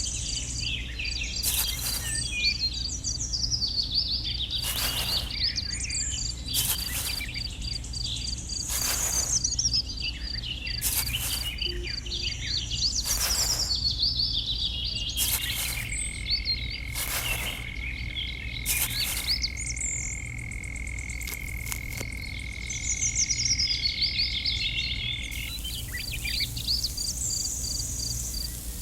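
Outdoor nature ambience: insects chirping steadily with a fast even pulse, bird calls, and loud croak-like pulses about every two seconds, over a low steady hum. A steady high whistle-like tone sounds through the middle.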